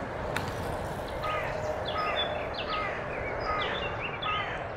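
A bird calling over and over in short, quick notes that slide downward, about three a second, starting about a second in, over a steady low rush.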